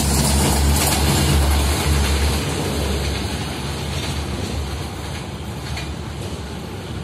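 Passenger train coaches running away along the track. The wheel-on-rail rumble dies down steadily as the tail end recedes.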